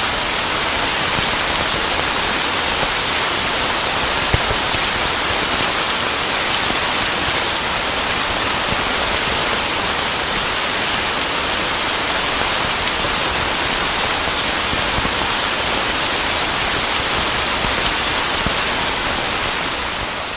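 Steady, dense rainfall: a continuous wash of rain on surfaces, with one sharp tick about four seconds in. The sound begins to fade out at the very end.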